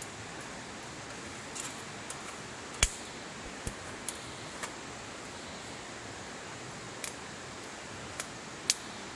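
Wood campfire crackling: a steady hiss with a scatter of sharp, irregular pops, the loudest about three seconds in and another strong one near the end.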